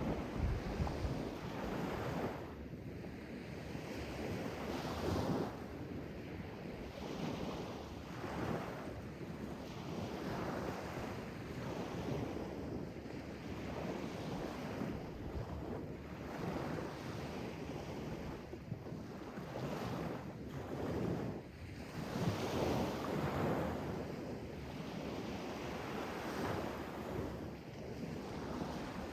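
Sea waves washing and breaking against the shore, a continuous rushing surf that swells and falls every few seconds, with some wind buffeting the microphone.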